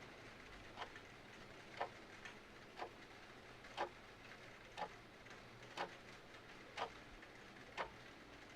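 Mechanical clock ticking steadily, about once a second, over a soft steady hiss of rain.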